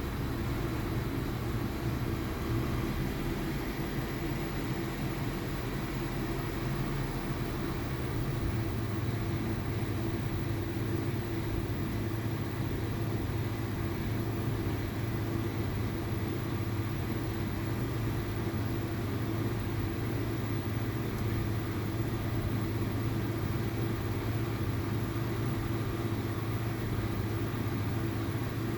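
VW Polo 1.2 TSI four-cylinder petrol engine running steadily at low revs, with the misfire and low-rpm vibration the owner is showing. About eight seconds in, the deepest rumble fades and a steady hum becomes stronger.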